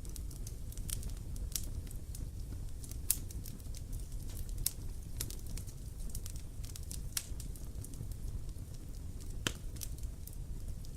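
Wood fire burning, a steady low rumble of flames under irregular sharp crackles and pops from the burning wood.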